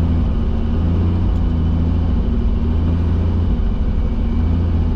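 Robinson R44 Raven II helicopter's six-cylinder piston engine running steadily at low power with the rotor turning, warming up just after start. A loud, even hum with a deep drone and no change in pitch.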